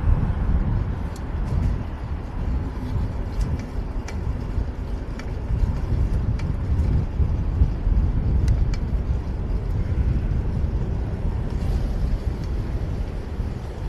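Riding noise from a bicycle moving through city traffic: a heavy, uneven low rumble of wind on the camera microphone and passing vehicles.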